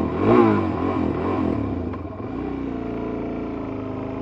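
Suzuki DR-Z400S single-cylinder four-stroke engine revving up and down in a few quick swings of pitch during the first second and a half, loudest about half a second in. It then runs at a steadier pitch as the bike rides on.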